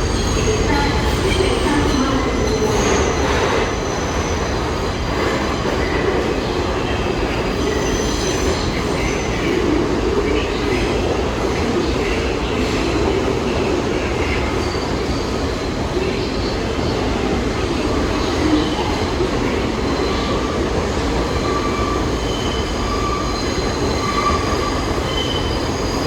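New York City subway train running through the station with a steady rumble, its wheels squealing in short high bursts on and off.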